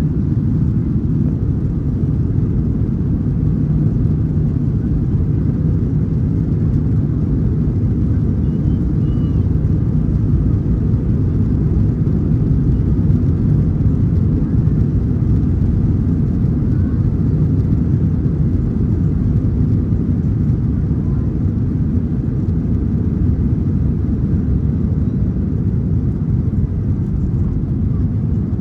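Cabin noise of a Boeing 737-900ER with its two CFM56-7B26 turbofan engines at high thrust: a loud, steady low rumble.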